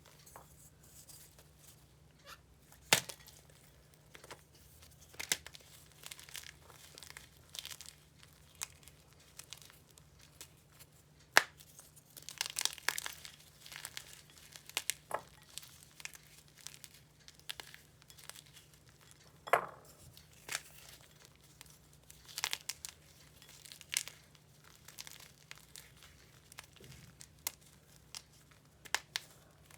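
Block of chalk being crushed and crumbled, with irregular sharp snaps and short bursts of dry crunching crackle.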